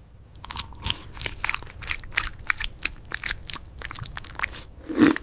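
Close-miked eating: a person biting and chewing food, with a quick run of crisp crunches, several a second.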